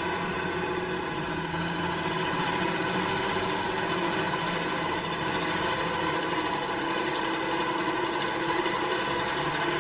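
An engine of farm machinery running steadily at an even pitch.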